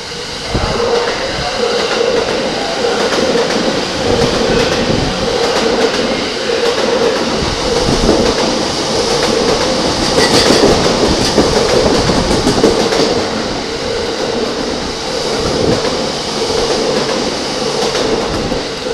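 A 15-car E231-series and E233-series electric commuter train running through the platform at speed without stopping. Its wheels and running gear make a loud, steady rush with a steady hum and repeated clacks over the rail joints. The noise comes up sharply about half a second in.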